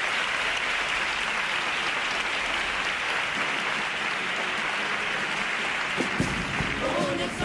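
Audience applauding at the end of a sung section of the comparsa. About six seconds in, the group's music starts up again under the applause.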